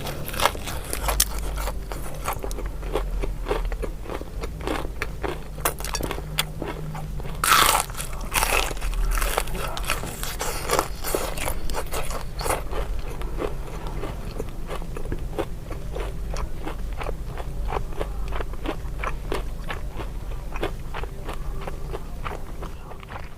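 Close-up biting, crunching and chewing of crispy fried chicken. A loud crunching bite comes about seven and a half seconds in, followed by several seconds of dense crackling crunches, which then ease into lighter, quieter chewing.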